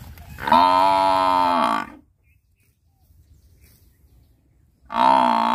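Buffalo lowing: one long call of about a second and a half whose pitch rises slightly and drops at the end, then, after a quiet gap, a second call starting near the end.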